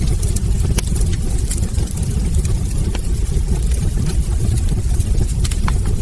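Wood fire burning in a fireplace: a steady low rumble with frequent small, sharp crackles from the burning logs.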